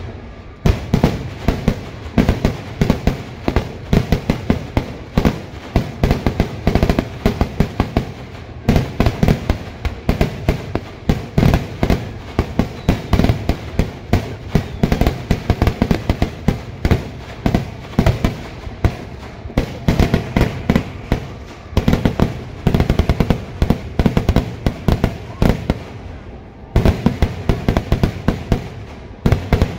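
Kerala temple-festival fireworks (vedikettu) going off in a dense barrage: loud bangs and cracks, several a second, almost without a break, easing briefly about nine seconds in and again a few seconds before the end.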